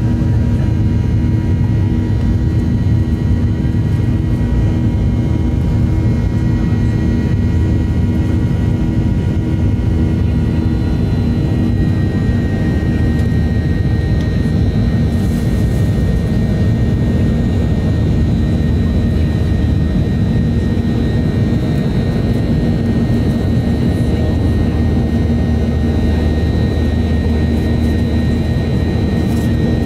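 Cabin noise of a Boeing 737-800 in flight: the CFM56-7B turbofan engines running steadily with airflow rumble and a few faint whining tones, which shift slightly about twelve seconds in.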